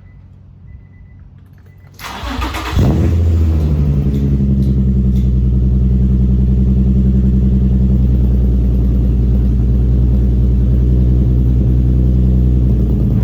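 Infiniti G35's 3.5-litre V6 with an aftermarket single-exit exhaust, non-resonated test pipes and Y-pipe, cranked and started about two seconds in. It catches within a second and settles into a loud, steady idle.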